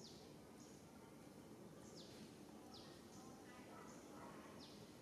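Near silence: a faint outdoor background with a few short, high, falling bird chirps.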